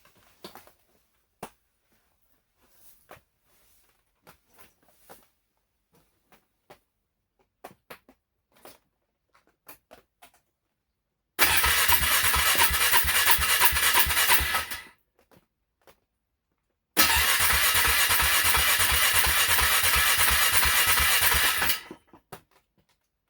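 A few faint clicks, then an ATV's engine being cranked on a cold start in two long tries of about four and five seconds, with even pulses. Each try stops abruptly without the engine catching, a cranky cold start.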